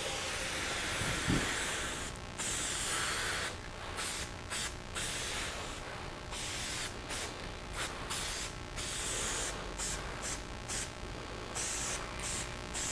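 Aerosol spray-paint can hissing in repeated passes of a second or so, stopping and starting with short gaps, as color coat goes onto a car bumper. A brief knock about a second in.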